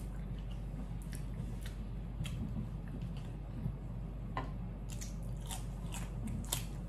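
Close-up chewing with scattered wet mouth clicks, then a run of crisp crunchy bites into a raw cucumber stick near the end.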